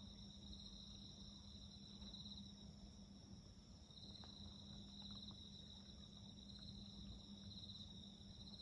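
Faint chorus of night insects: crickets trilling steadily at a high pitch, with pulsing phrases about half a second long repeating every second or two. A few faint ticks from the fire come in around the middle.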